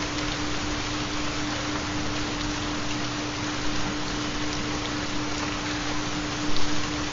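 Recorded rain falling steadily, with a constant low tone from a 4 Hz theta binaural-beat track underneath. A couple of brief louder splashes stand out, the larger one near the end.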